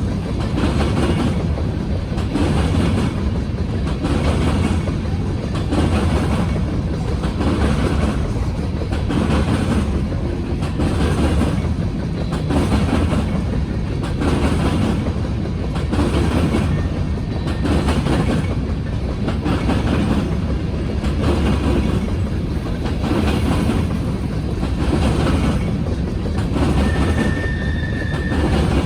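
Freight train of grain hopper cars rolling past, its wheels clacking over the rail joints in a steady rhythm about once a second, with a brief high wheel squeal near the end.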